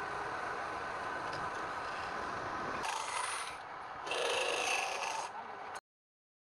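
Wood being rubbed or rasped, a steady scratchy noise that changes character about three seconds in and then cuts off abruptly to dead silence near the end.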